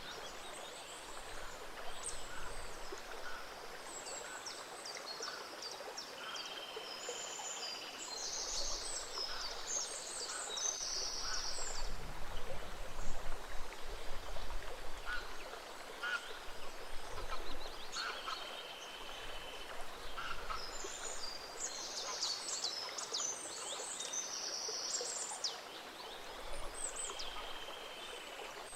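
Small stream running steadily, with songbirds chirping over it in frequent short calls and trills, busiest in two spells about a third of the way in and again past the middle.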